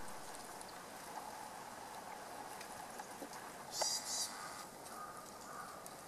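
A tit at a sunflower-seed feeder giving a short burst of high, buzzy call notes about four seconds in, over a steady outdoor hiss.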